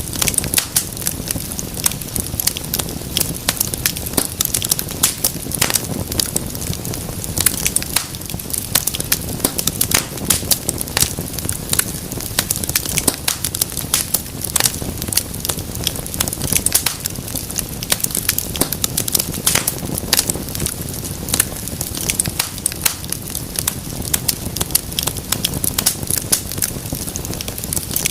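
Wood fire burning with dense crackling and popping, many sharp snaps a second over a steady low rumble of the flames.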